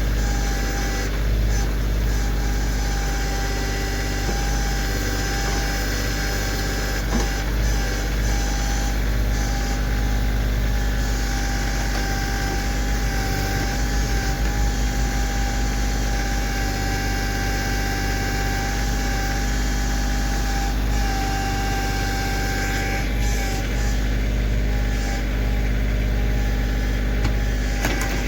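Kioti CK2610 compact tractor's diesel engine running steadily while working the backhoe, with a steady whine over the engine note.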